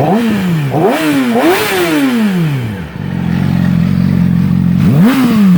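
2008 Yamaha R6's inline-four running with its muffler removed, so the exhaust is open. The throttle is blipped three times in quick succession, each rev rising sharply and falling away. The engine settles to a steady idle and is revved once more near the end.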